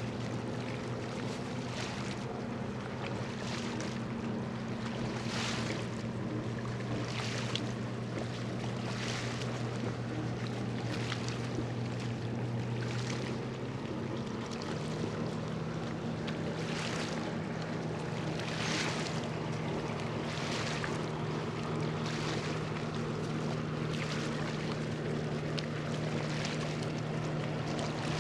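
Cargo ship's diesel engine droning steadily in a low hum, its pitch shifting upward about halfway through as the engine speed changes while the disabled ship tries to get under way. A soft swish comes about every two seconds over it.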